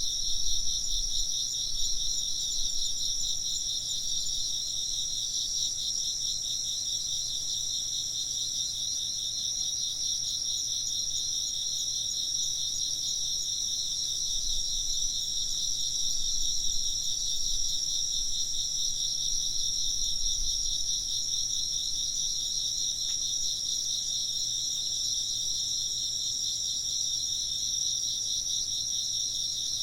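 Insects chirping in a steady, dense chorus of fast pulsing trills that carries on unbroken, with faint low rumbles now and then.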